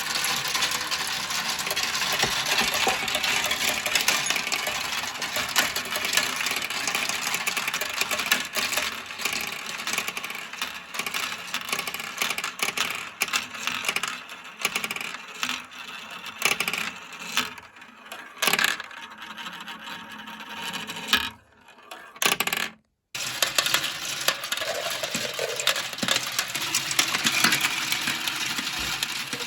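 Many marbles rolling and clattering down a plastic Kumikumi Slope marble run: a dense rattle of clicks that thins to scattered clicks, cuts out briefly about two-thirds through, then comes back dense.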